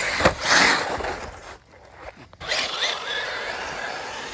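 RC racing buggies speeding past with a whirring whine, in two quick zipping passes. After a short break, the motor whine rises and falls in pitch.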